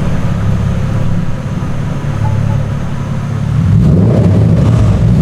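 Mercedes-Benz SLK350's V6 running through a modified exhaust with the second catalytic converter cut out, a steady low drone. It grows louder and fuller about four seconds in.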